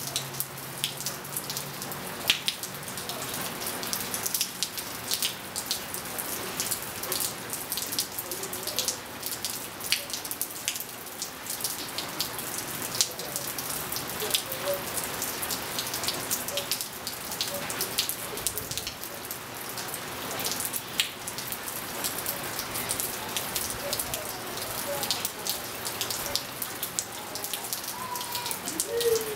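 Steady rain pattering on a pool, patio tiles and paving, dense with small drops and drips, with faint scattered wind-chime notes now and then. A low hum stops about two seconds in.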